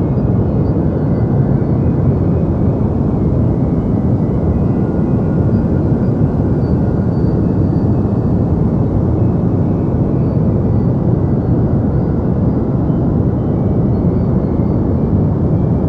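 Deep, bass-heavy steady noise: a low, even rushing sound with little high hiss, unchanging throughout.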